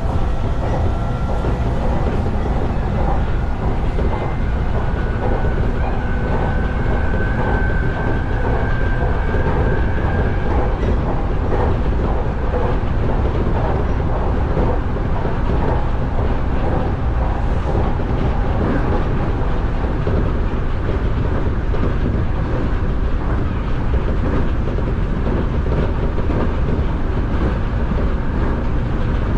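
Nankai Main Line electric train running at speed, heard from inside the front car: a steady low rumble of wheels on rail with rail-joint clatter. A faint high whine sounds between about six and ten seconds in.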